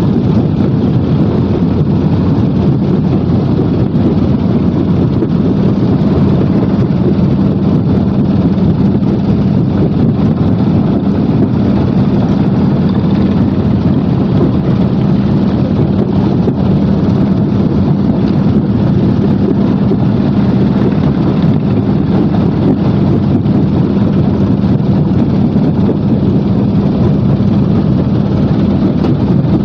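Heavy machinery running steadily: a loud, constant mechanical hum over dense rumbling noise, unchanging throughout.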